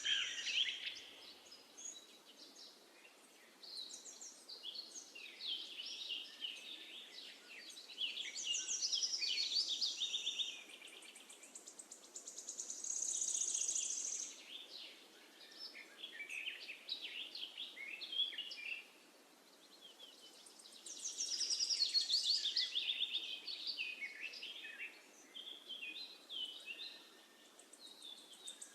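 Songbirds singing in chirping, trilling phrases a few seconds long, one after another, over a faint steady hiss.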